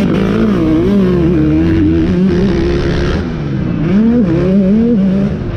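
Motocross motorcycle engines racing, the note revving up and falling off again and again as riders work the throttle, dipping briefly about three seconds in before rising again.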